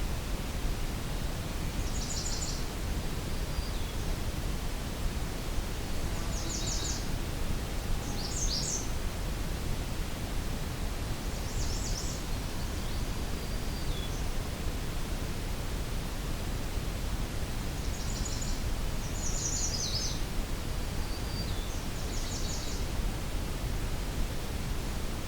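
A small songbird sings about seven short, high, rapid trilled phrases a few seconds apart, over a steady low background rush.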